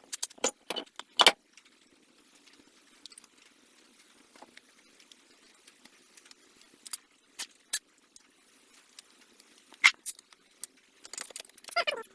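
Sharp metallic clinks and clatters of tools and hardware being handled: a quick run of clinks at the start, a few single clicks, then a denser jangling clatter near the end.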